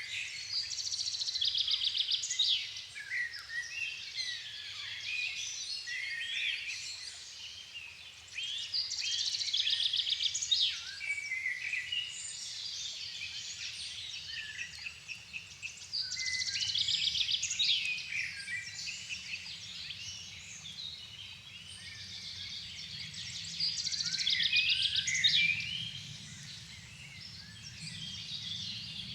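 Woodland dusk chorus of several songbirds calling and singing. One bird repeats a loud song phrase of about two to three seconds every seven or eight seconds, with other chirps between. A faint low rumble underneath grows a little louder in the second half.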